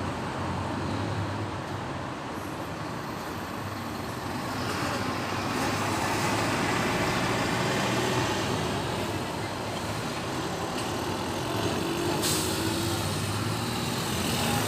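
Busy city road traffic: engines of trucks, buses and cars running past in a continuous wash of engine and tyre noise. A short hiss comes about twelve seconds in.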